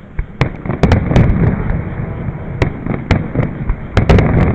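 Fireworks display: a rapid, irregular series of sharp bangs and crackles from shells bursting overhead, over a continuous deep rumble, the loudest burst of cracks coming near the end.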